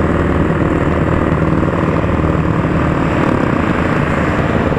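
Motorcycle engine running steadily at a constant speed while riding. The sound stays even throughout, with no sudden events.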